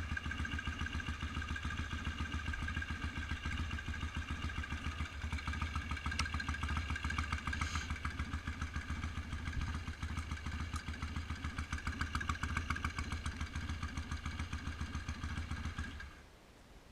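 1971 BSA Lightning's 650 cc parallel-twin engine idling with an even, pulsing beat, then stopping near the end.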